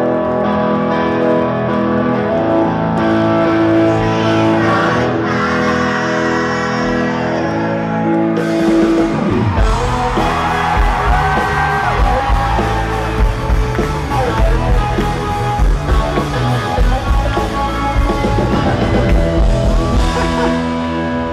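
Live rock band playing: held guitar chords, then drums and bass come in about nine and a half seconds in, with singing over the band.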